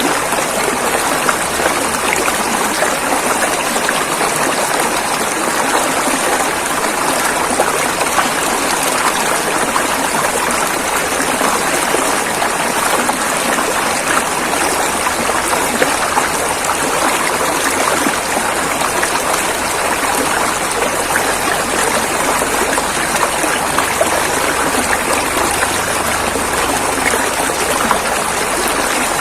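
River water flowing over rocks: a steady rushing and splashing with no breaks.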